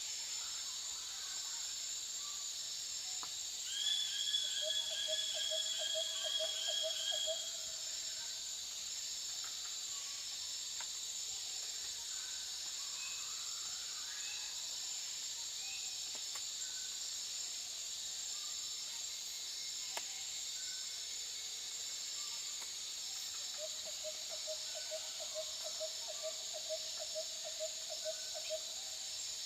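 Steady high-pitched insect chorus. Twice, a creature calls in a fast run of repeated notes, the first run about four seconds in and the second near the end.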